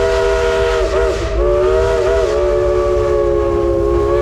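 Steam whistle of Shay locomotive No. 5, a chime whistle sounding a long chord of several steady tones. The chord wavers and breaks briefly about a second in, then holds until it stops near the end, over the train's low rumble.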